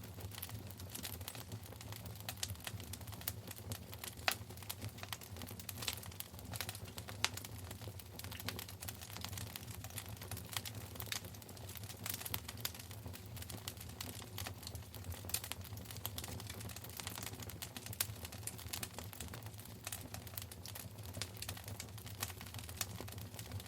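Wood fire in a fireplace crackling: irregular small snaps and pops with a few louder cracks, over a steady low rumble.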